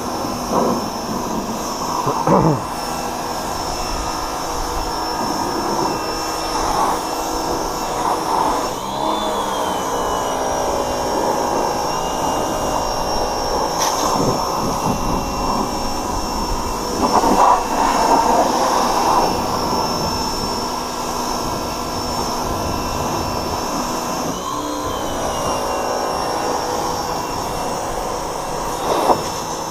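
Electric pressure washer running, its motor and pump whining steadily under a hiss of water spray from the wand. About a third of the way in, and again past the three-quarter mark, the whine bends up in pitch and then settles.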